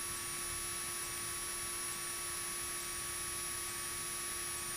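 Steady electrical hum and hiss on a cockpit intercom audio feed, with a few faint constant tones and no distinct engine or other events.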